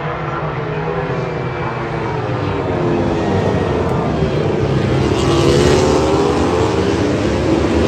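Racing motorcycle engines at high revs, passing on track; the engine note bends in pitch and swells, loudest a little past the middle.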